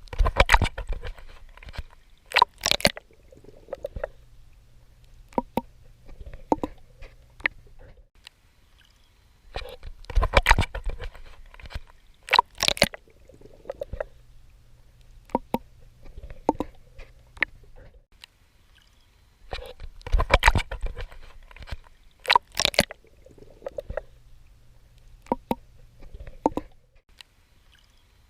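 Swimming strokes splashing and sloshing in water, in a loop that repeats about every ten seconds: each round has two loud splashes a couple of seconds apart, then smaller clicks and sloshes.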